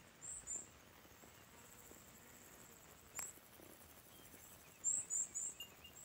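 Faint outdoor ambience with a small bird's thin, high chirps: two near the start and three more about five seconds in. A single sharp click sounds about three seconds in.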